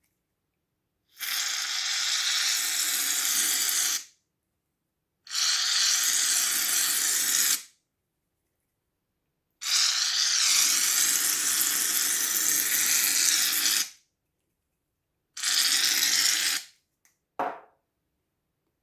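Slime being squished and worked by hand, heard as four separate stretches of steady crackling hiss, each cut off abruptly, with a short low blip near the end.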